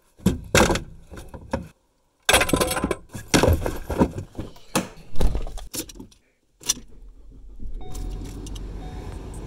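Keys jangling and gear clattering in short, sharply cut stretches, then a steady low hum like a car running from about seven seconds in.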